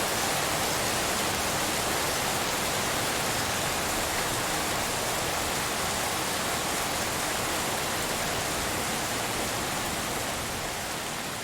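Steady, even hiss of falling rain blended with pink noise, beginning to fade out near the end.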